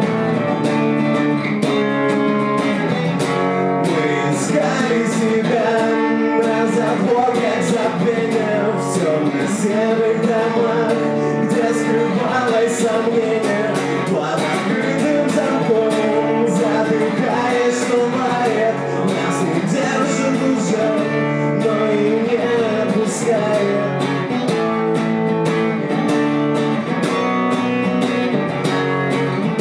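Live acoustic song: steadily strummed acoustic guitar chords with a wavering sung melody over them through most of the stretch.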